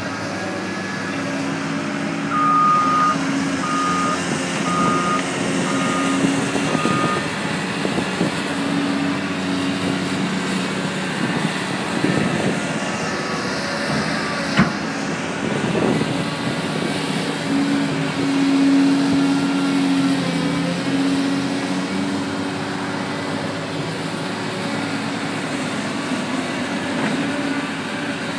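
Diesel engines of a backhoe and front loader running and working, with a backup alarm beeping five times a few seconds in, about one beep a second. About halfway there is a single sharp clank.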